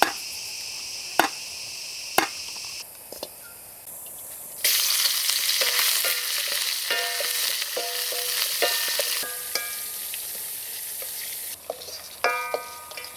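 A few sharp knocks, then about four and a half seconds in a sudden loud sizzling as food goes into hot oil. A metal utensil then scrapes and clinks against the pan as the food is stirred and fried.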